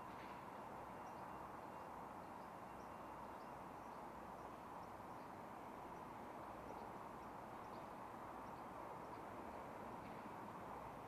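Faint outdoor ambience: a steady low hiss with small birds chirping faintly and intermittently.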